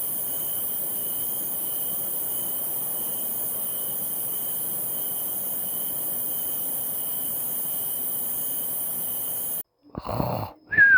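A steady, high insect trill over an even hiss, which cuts off abruptly near the end. A brief noisy burst follows.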